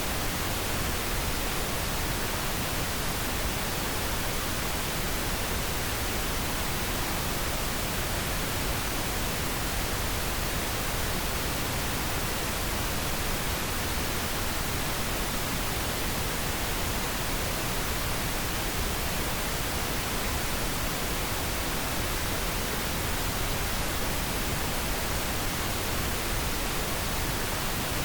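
Steady pink noise, an even hiss that does not change.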